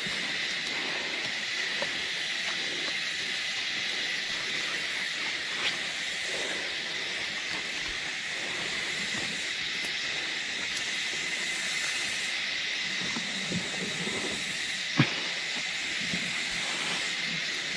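Steady high-pitched hissing drone of outdoor ambience, with a few faint ticks and one sharp click about fifteen seconds in.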